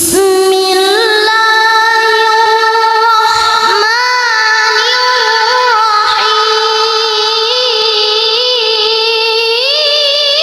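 A child's high voice reciting the Qur'an in melodic tilawah style, holding long drawn-out notes that waver and bend in ornamented turns. The voice comes in sharply right at the start.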